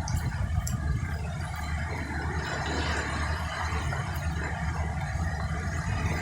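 Goods train passing behind a screen of trees: a steady, continuous low rumble.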